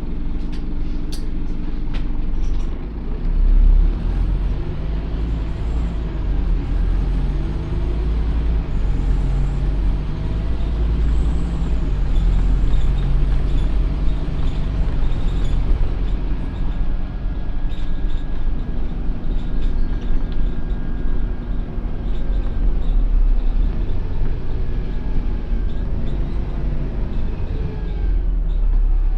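Scania OmniCity N230UD double-decker bus's five-cylinder diesel engine running as the bus drives. Its pitch rises and falls with speed and gear changes over a deep, steady rumble, with a few short clicks in the first couple of seconds.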